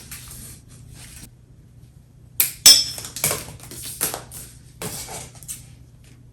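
A quick run of sharp clattering and rustling as the synthetic-cane chair and its plastic rattan strands are handled, starting a couple of seconds in. The loudest knock comes near the start of the run, and it dies away after about three seconds.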